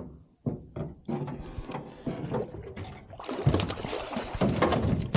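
Water splashing with irregular knocks and rattles as a hooked blue catfish is reeled in and brought to the boat, growing busier and louder over the last couple of seconds.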